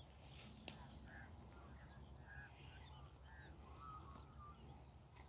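Near silence with faint, short bird chirps, about one or two a second, and a single sharp click less than a second in.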